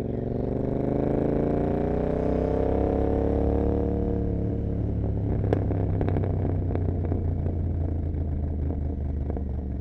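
Royal Enfield Continental GT 650's parallel-twin engine through an Emgo cafe muffler, accelerating with its note rising in pitch for about four seconds, then easing off into a steadier run with a few sharp clicks.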